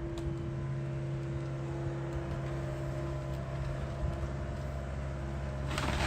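John Deere excavator's diesel engine running at a steady hum. Near the end, cracking and clattering begins over it.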